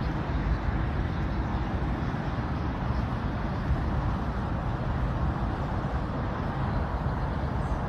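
Steady road and engine noise of a moving car, an even low rumble with hiss.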